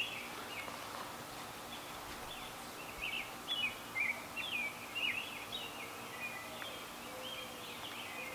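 A small bird chirping outdoors in a run of short, quick up-and-down chirps that start about two seconds in and fade out near the end, over a faint steady background hum.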